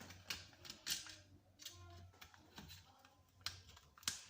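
Scattered light clicks and taps of small metal parts being handled as screws and washers are fitted to a barber chair's headrest, over a low steady hum.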